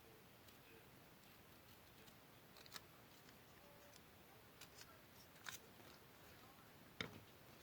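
Near silence broken by a few faint, short snips and clicks of paper being cut and handled, the loudest near the end.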